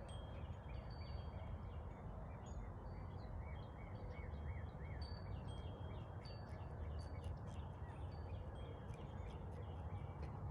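Several wild birds singing at once in a morning chorus: many short chirps, whistles and trills. A run of about six quick repeated notes comes a few seconds in. Under it runs a steady low background rumble.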